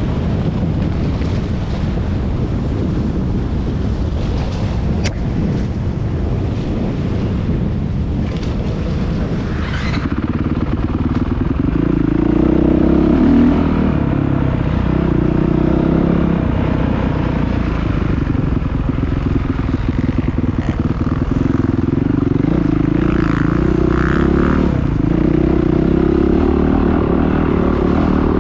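Dirt bike engine running and revving, its pitch rising and falling, from about twelve seconds in; before that, a low steady rumbling noise.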